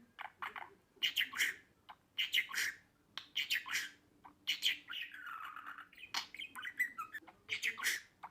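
Budgerigar chattering: short groups of raspy chirps about once a second, with a longer, lower warble in the middle.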